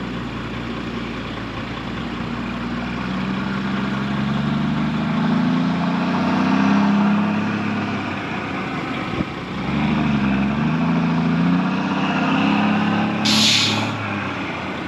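Heavy diesel engine running, its pitch rising and falling several times, with a short burst of air hiss near the end.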